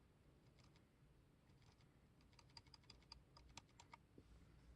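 Faint computer keyboard keystrokes against near silence: a few scattered clicks, then a quick run of about a dozen keys in the middle.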